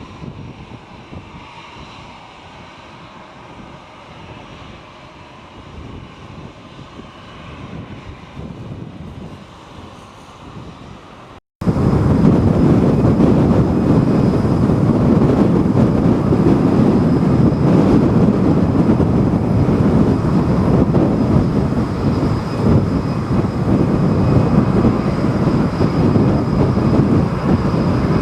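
Jet airliner's engines on landing approach, heard close by with strong wind buffeting the microphone. A faint hiss for about the first eleven seconds, then an abrupt cut to the loud engine and wind noise, which holds steady with a thin high whine on top.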